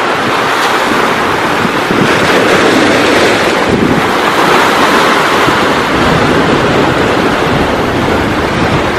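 Ocean surf washing and breaking, a loud steady roar that swells and eases, with wind buffeting the microphone.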